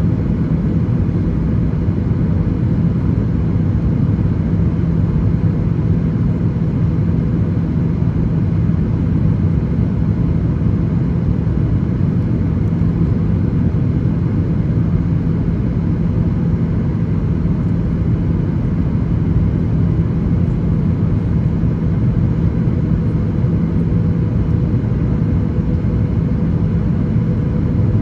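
Boeing 737-800 cabin noise in flight: a steady drone of the CFM56-7B engines and airflow, with a low steady hum running underneath.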